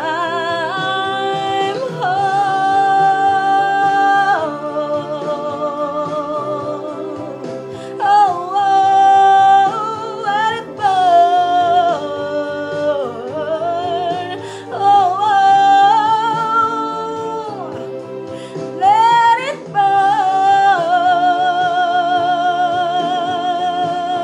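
Song with a sung melody held in long wavering notes that slide between pitches, over steady accompaniment.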